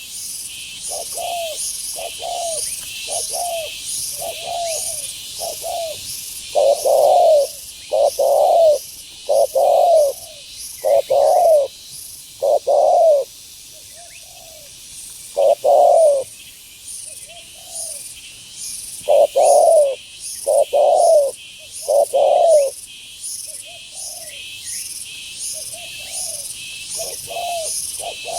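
Spotted doves cooing in a series of short, repeated coos. The coos get much louder for a stretch in the middle, then fall back to a softer run of calls. A rapid high chirping goes on steadily underneath.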